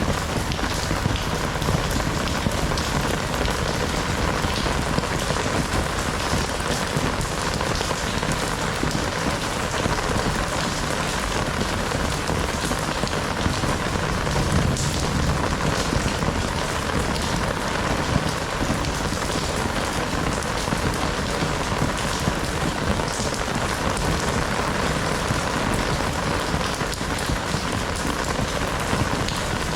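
Heavy rain falling steadily, a dense hiss with countless drops pattering on surfaces.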